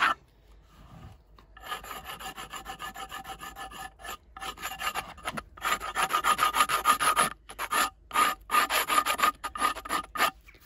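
A glass shard scraped in quick back-and-forth strokes along the edge of a thick wooden board, rasping off the splinters to smooth it. The strokes run steadily from about a second and a half in, with a few brief pauses.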